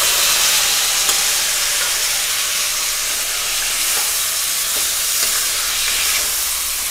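Boiled raw jackfruit pieces and their cooking water hitting hot oil and spices in an iron kadai: a loud, steady sizzle that fades a little near the end, with a spatula stirring through it.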